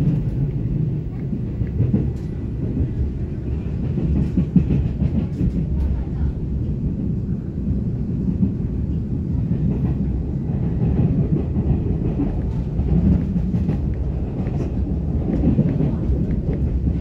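Inside a moving passenger railcar: the steady low rumble of the wheels running on the rails, with scattered clicks of rail joints, one sharper click about four and a half seconds in.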